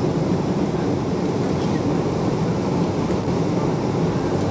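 Steady roar of an airliner cabin in flight, the engine and airflow noise heard from inside the plane, deep and unchanging.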